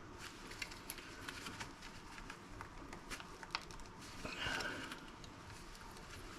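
Faint handling of salvaged small parts: scattered light clicks and taps of plastic and metal, with a brief rustling scrape about four seconds in.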